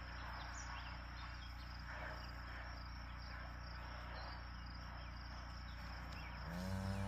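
Crickets chirping steadily in the background. Near the end a cow gives one low moo.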